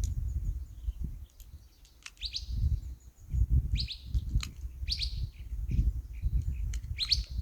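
A songbird chirping: four short, high calls, each sweeping down in pitch, spaced about a second or two apart, over an uneven low rumble.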